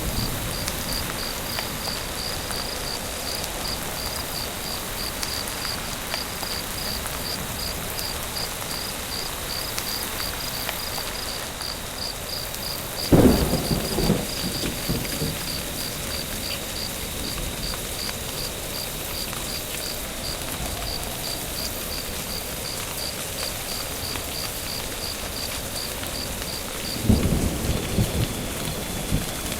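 Steady rain with two claps of thunder, one about halfway through and one near the end, each a sudden crack that rumbles on for a second or two. A faint high chirping pulses about twice a second through the rain and stops shortly before the end.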